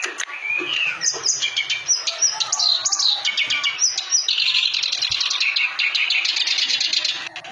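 Reed warbler (kerak basi) singing vigorously: a fast, varied chatter of chirps and short whistled notes that turns into a dense, sustained trill about four seconds in, stopping just before the end.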